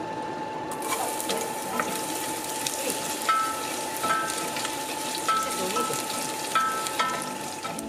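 Ginger and garlic pieces sizzling in hot oil and caramelised sugar in a stainless steel pot, the sizzle starting about a second in, while a wooden spoon stirs them. Several short ringing knocks of the spoon against the pot in the second half.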